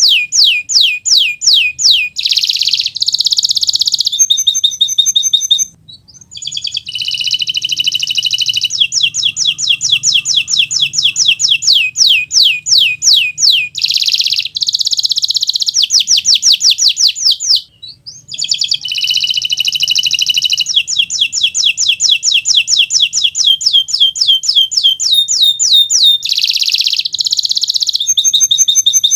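Domestic canary singing continuously: loud, rapid trills of repeated high notes, the phrase changing every second or two, with two brief pauses about six and eighteen seconds in.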